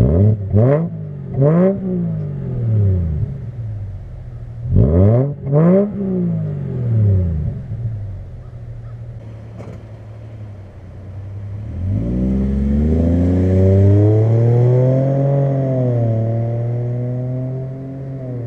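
2005 Subaru Outback's 3.0 flat-six with both mufflers deleted for straight 2-inch tailpipes, running loud. It is blipped up and back to idle twice in quick succession, then twice more about five seconds in. From about twelve seconds in it is revved up and held for a few seconds before dropping back to idle.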